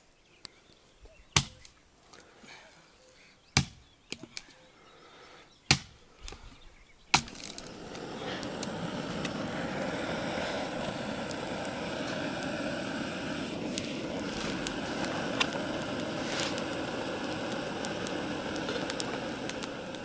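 Rain beginning on a camp shelter: a few separate sharp hits of large drops, then about seven seconds in a steady downpour sets in and keeps on evenly.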